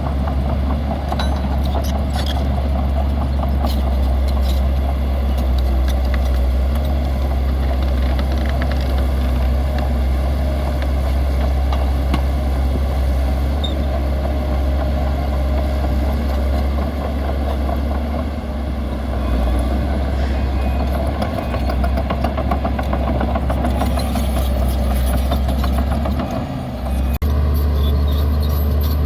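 Heavy diesel engine of a bulldozer running steadily with a deep drone, dipping briefly near the end before picking up again.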